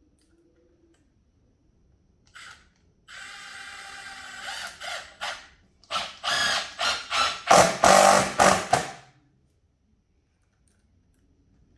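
Power drill running: a steady whine for about a second and a half, then a run of short trigger bursts that get louder, stopping about three-quarters of the way through.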